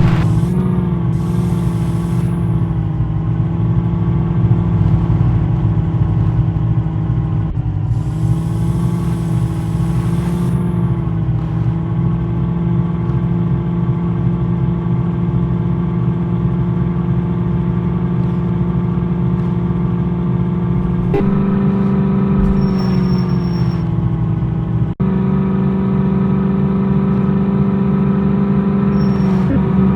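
Jeep engine running steadily while driving, its note holding at one pitch and shifting a few times, with a sudden short break about 25 seconds in.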